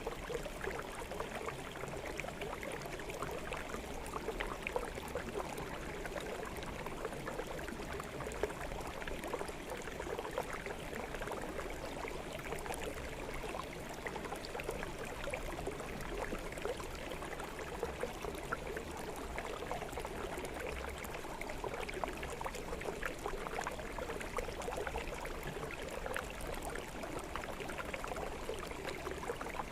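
Shallow forest stream flowing steadily over rocks, a continuous babbling and trickling.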